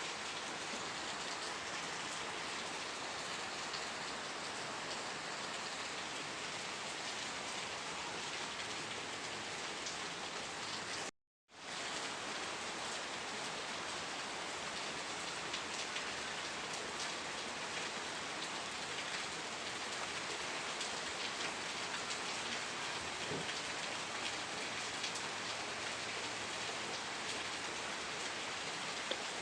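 Steady rain falling, a dense even hiss of drops with scattered individual drop ticks. The sound cuts out completely for a split second about eleven seconds in, then resumes unchanged.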